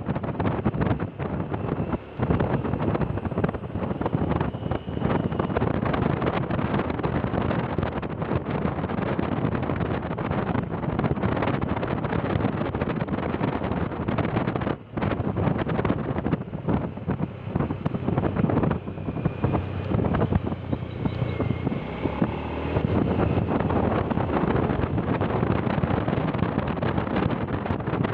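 Wind buffeting the microphone over the steady engine and road noise of a vehicle on the move, dropping off briefly twice.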